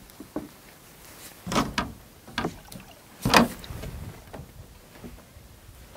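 A small rowing boat being pushed off with an oar: a few short knocks and swishes, the loudest about three seconds in.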